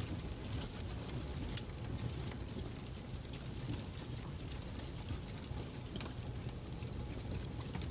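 Fireplace crackling: a steady low rumble of the burning fire with irregular small pops and crackles.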